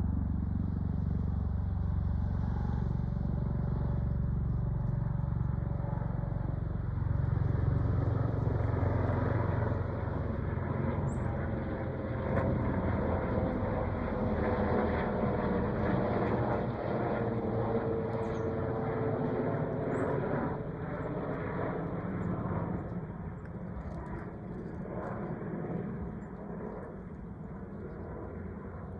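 Aerospatiale helicopter passing overhead, its rotor and engine a steady low rumble that is loudest in the first ten seconds. Midway a drawn-out tone drops in pitch as it goes by, and the sound then fades as it flies away.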